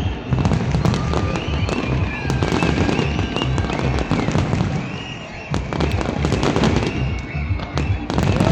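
Fireworks display going off: a dense, continuous run of rapid bangs and crackles with heavy low booms underneath, and some short rising and falling whistling tones.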